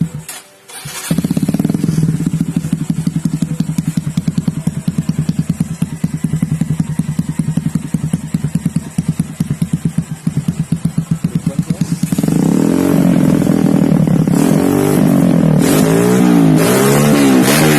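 Kawasaki KLX150/D-Tracker 150 single-cylinder four-stroke engine through a GP7 RS aftermarket exhaust, idling with a fast steady pulse from about a second in. From about two-thirds of the way through it is revved again and again, the pitch rising and falling with each blip and the sound louder.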